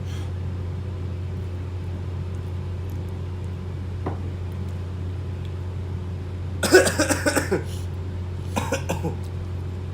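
A person coughing in a short fit of several coughs, then a few more coughs, brought on by the heat of very spicy noodles. A steady low hum runs underneath.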